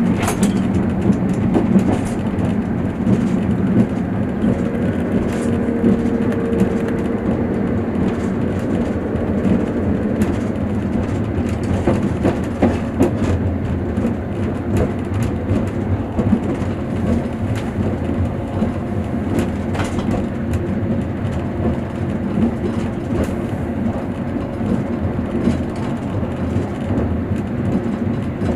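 Train running at speed, heard from inside the passenger coach: a steady low rumble of wheels on rail, with scattered sharper clicks and knocks.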